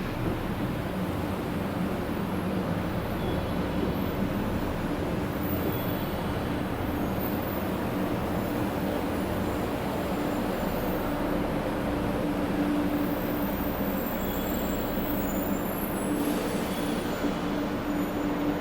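500 series Shinkansen train running at a steady speed: an even rumble with a steady low hum.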